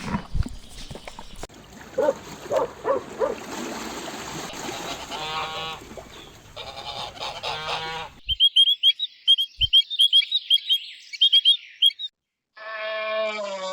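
Geese honking in several short bursts, then a quick run of short, high bird chirps. After a brief silent gap, a long drawn-out call from another animal begins near the end.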